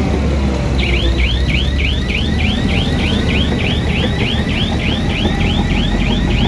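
Heavy earthmoving machine's engine running with a steady low rumble. About a second in, a high warbling chirp starts and repeats three to four times a second.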